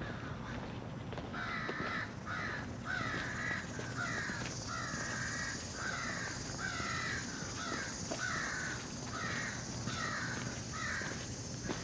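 A bird giving a long run of short, harsh calls, roughly two a second, starting about a second in.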